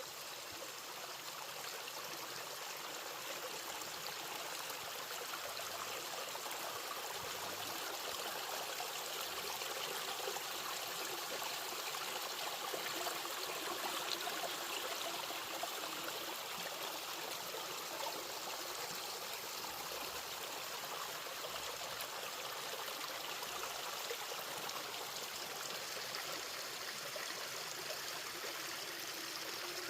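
A small stream of water running steadily.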